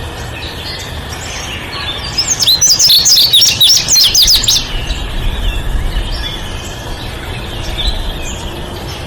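Small bird chirping: a fast run of short, high chirps lasting about two seconds, starting a couple of seconds in, with fainter chirps before and after over steady background noise.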